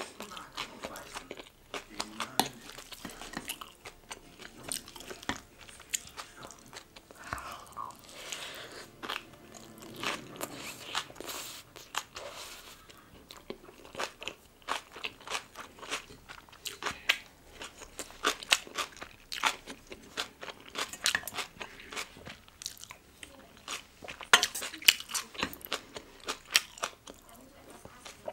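Close-miked chewing of a mouthful of yeolmu kimchi bibimbap, with many crisp, wet crunches from the radish kimchi. The crunches come in irregular runs and are loudest a little before the end.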